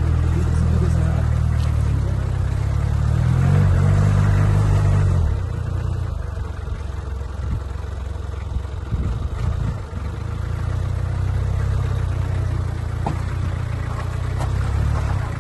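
A vehicle engine running with a steady low drone. It shifts in pitch about four seconds in, gives way to an uneven low rumble for several seconds, then settles back into a steady drone.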